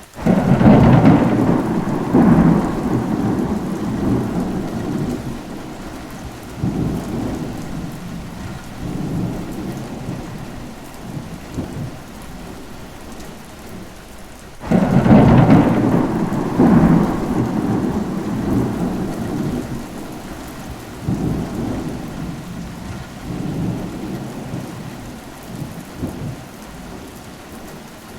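Steady rain falling, with thunder rolling over it. There is a sudden loud crack and rumble at the start and another about fifteen seconds later, each dying away in a long rolling rumble with smaller swells in between.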